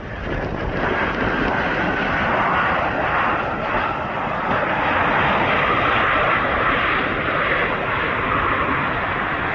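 Airplane's engines running loudly as it passes, a steady rushing noise that builds over the first second and holds.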